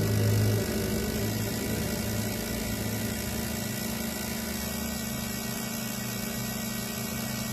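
A steady machine hum with a low, even drone whose tone changes slightly about halfway through.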